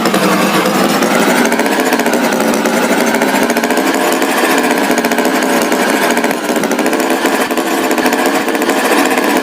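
Loud, rattling engine running steadily with a fast, even pulse, its pitch rising and falling a little.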